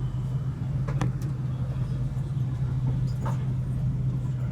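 Steady low hum of a train standing at the platform, with a couple of faint clicks.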